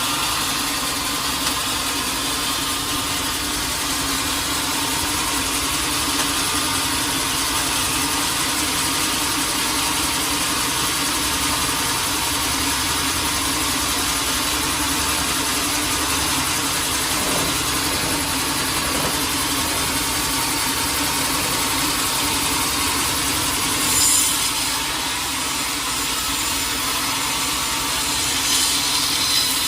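Sawmill saw running steadily as it cuts through a teak log, with two short, louder high-pitched spurts late on.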